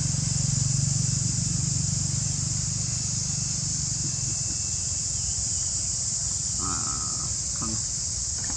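Steady high-pitched drone of insects, with the low hum of a motor vehicle's engine that fades out in the first half, and a short call about seven seconds in.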